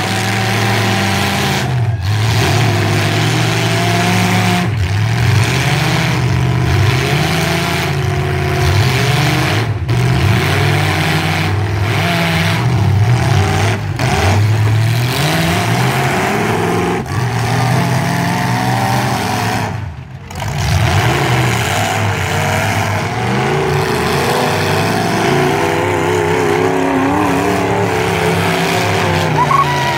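Demolition derby truck engines running hard and revving, their pitch rising and falling continually, with a short drop in level about twenty seconds in.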